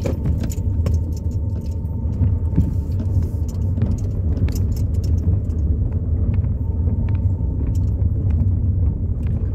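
Car driving slowly, heard from inside the cabin: a steady low engine and road rumble with scattered clicks and rattles throughout.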